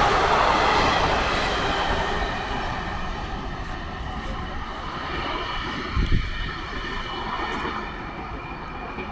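Express train coaches passing at speed, a dense rumble of wheels on track that steadily fades as the train recedes. There is a brief low thump about six seconds in.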